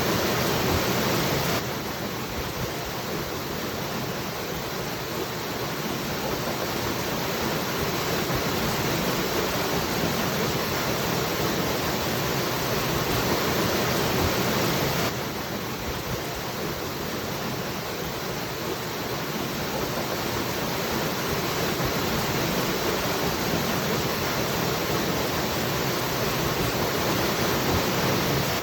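Waterfall, a steady rush of falling water. Its level drops abruptly twice, about 13 seconds apart, and builds slowly back up each time.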